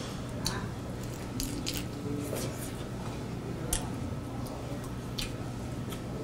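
Close-up eating sounds: scattered wet clicks and smacks of someone chewing crispy fried chicken in sauce, over a steady low hum.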